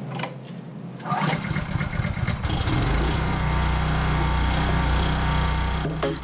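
Small gasoline engine starting up and then running steadily at speed.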